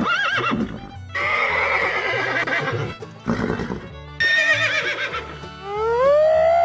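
Animal calls over background music: several short, wavering, whinny-like high calls, then near the end a longer call that rises and then falls in pitch.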